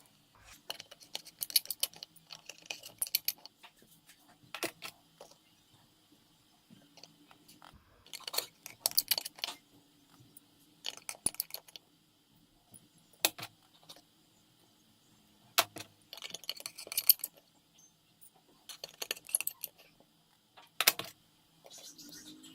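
Small hard objects clicking and rattling against a work surface in irregular clusters, as tools and small phone parts are picked up and set down during a phone repair, over a faint steady hum.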